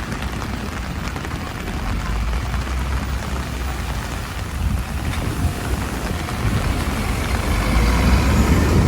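Heavy rain pouring down, with gusty wind rumbling on the microphone; the rain and wind grow louder toward the end.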